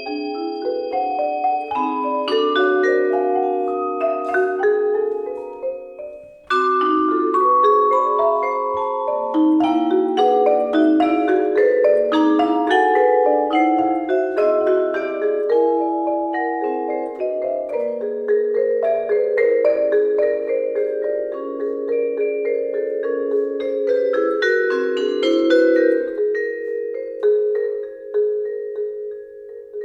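Vibraphone and two marimbas playing quick, overlapping ringing notes. The notes thin out and fade about six seconds in, then come back suddenly and densely, and at the end settle into a few held notes left ringing.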